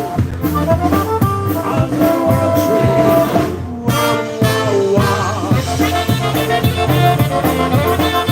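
Polka band playing live, an instrumental passage with brass and accordion over a steady bass and drum beat.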